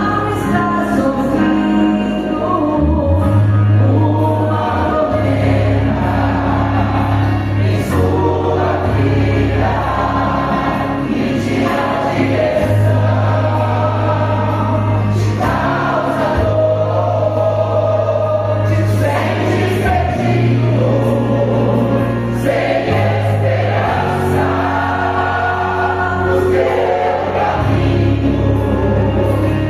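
Choir singing a gospel song over instrumental accompaniment, with a deep bass line holding each note for a couple of seconds beneath the voices.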